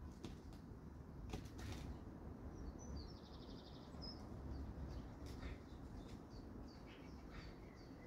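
Garden birds calling faintly: scattered short high chirps and a brief rapid trill about three seconds in, over a steady low background rumble.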